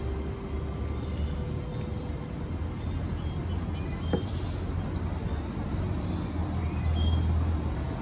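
Small birds chirping in short, scattered calls over a steady low rumble, with faint background music. A single sharp click sounds about halfway through.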